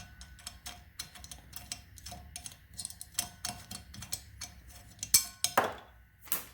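Light metallic clicking and tapping, about five clicks a second and uneven, as a small aluminum bracket and metal tools are handled on a workbench, with a few louder knocks and a scraping stroke near the end.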